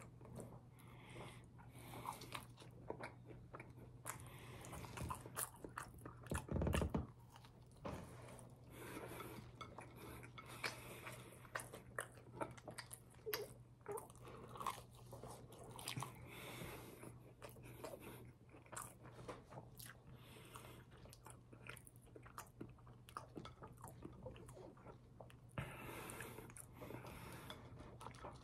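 Close-up chewing and biting into a burger, with many small wet clicks and crunches, over a low steady hum. A single low thump about six and a half seconds in is the loudest sound.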